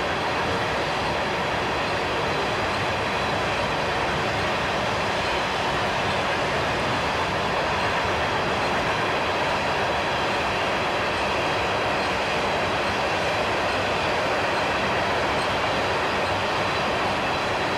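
Freight train of tank cars rolling past at speed: steel wheels on rail making a steady, even rumble and rush that neither rises nor falls.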